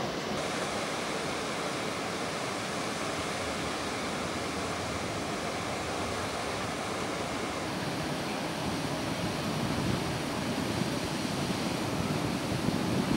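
Steady hiss of a heavy thunderstorm downpour, growing louder and more uneven in the last few seconds.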